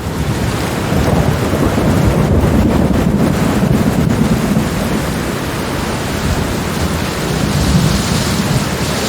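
Rainstorm: steady heavy rain with a long, rolling thunder rumble that swells about a second in and carries on.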